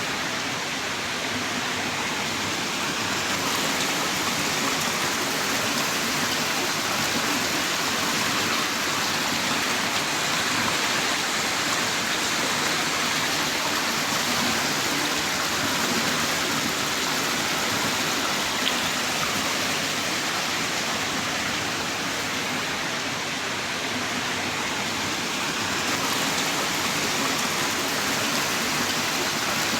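Heavy rain downpour: a dense, steady hiss of rain falling hard.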